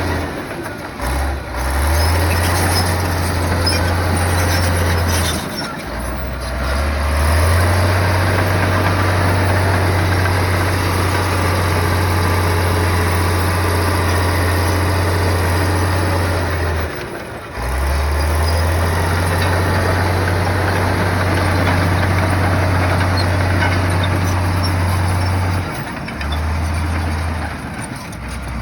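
Komatsu bulldozer's diesel engine running with a steady low drone and a clattering, noisy spread above it. The sound briefly dips and picks back up about a second in, around six seconds, around seventeen seconds and near the end.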